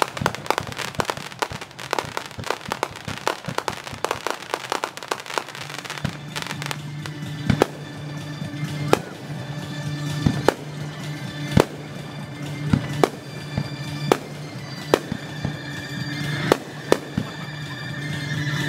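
Fireworks display sped up to double speed: dense crackling and popping for the first several seconds, then single sharp bangs about every second and a half, over music with steady held tones.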